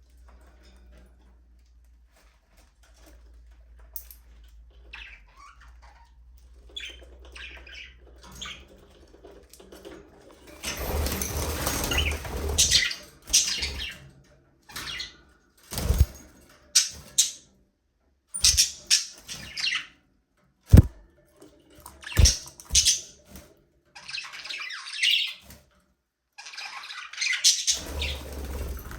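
A flock of budgerigars chirping and squawking, quiet and sparse at first, then a loud dense chatter from about ten seconds in, continuing in bursts with short pauses. A few sharp knocks sound among the calls.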